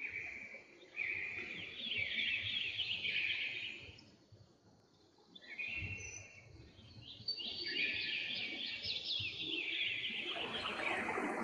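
Birds chirping in rapid twittering phrases of a second or two, broken by short pauses. About ten seconds in, a steady rushing noise comes in under them.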